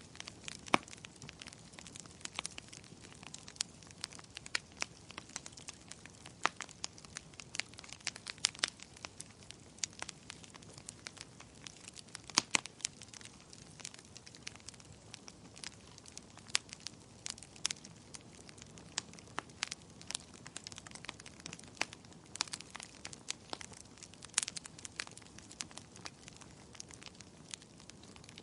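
Wood fire burning in a fireplace: irregular crackles and sharp pops over a low, steady hiss.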